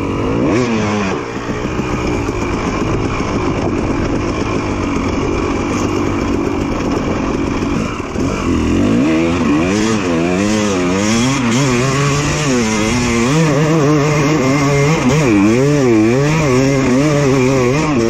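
Two-stroke dirt bike engine running, its pitch falling about a second in, then from about halfway on revved up and down over and over, roughly once a second, as the throttle is worked.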